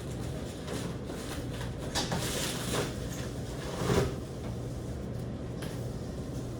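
A few short knocks and rustles over a steady low hum, the loudest knock about four seconds in.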